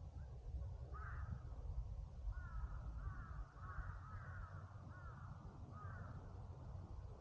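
A crow cawing: a single caw about a second in, then a run of five or six caws. A low steady rumble sits underneath.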